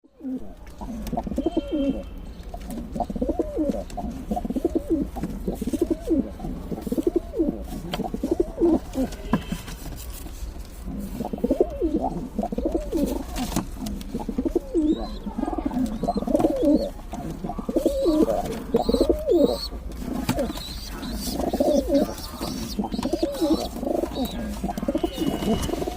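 Domestic pigeons cooing over and over, their wavering low calls overlapping almost without a break.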